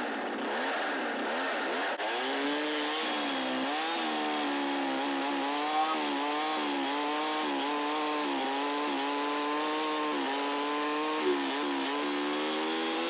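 Holzfforma G372XP, a 71cc two-stroke clone of the Husqvarna 372XP, running under load while cutting through a black cherry log. Its engine pitch dips and recovers again and again as the chain bites in the cut. The sound stops abruptly at the end.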